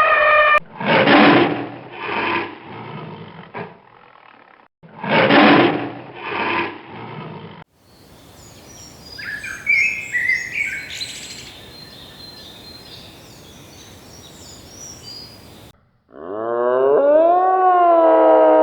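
A big cat (lion or tiger) roaring twice, each roar followed by shorter, weaker grunts. Then birds chirping and twittering for several seconds, and near the end a long, wavering howl begins.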